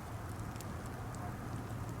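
Birch-wood campfire burning: a steady low rush with faint, scattered small crackles.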